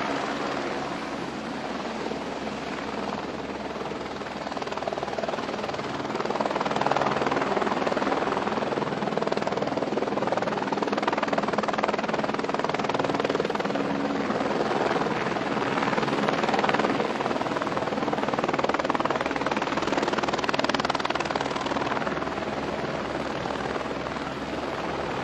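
Aircraft engine noise at an airfield, a loud steady mechanical roar that swells about six seconds in and eases a little near the end.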